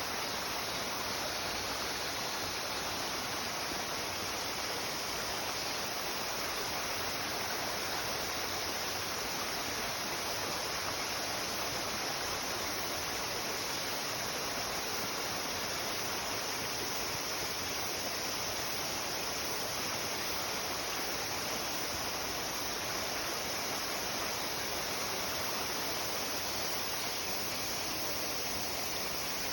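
Mountain stream rushing steadily over rocks in a forested valley, a continuous even water noise with no breaks.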